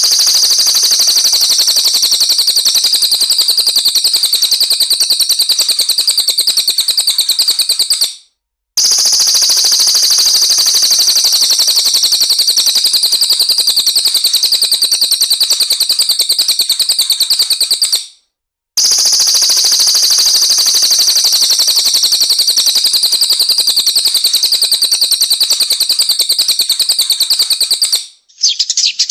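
A small songbird's rapid, high-pitched burst song, a dense run of very fast repeated notes, played as a recording that loops: it stops briefly about eight and eighteen seconds in and starts again the same. Just before the end a different, lower-pitched recording begins.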